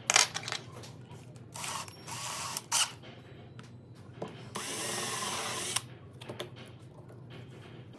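Woodworking shop sounds: sharp clicks and knocks of handling, and short bursts of a power tool, the longest lasting about a second near the middle.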